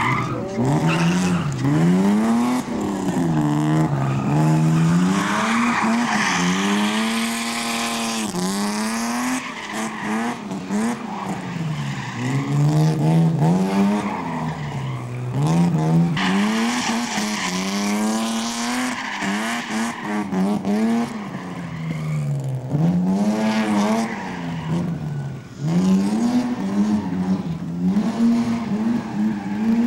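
A competition car's engine revving up and falling back over and over, its pitch climbing and dropping every two seconds or so as it accelerates and brakes through a slalom course, with tyres squealing in the turns.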